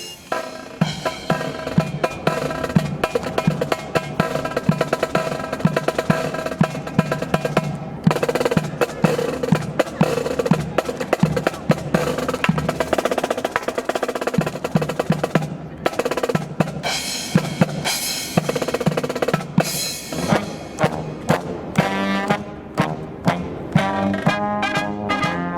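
Marching band drum section playing a cadence of snare drum rolls and rimshots over bass drum, the brass having stopped. Brass comes back in during the last few seconds.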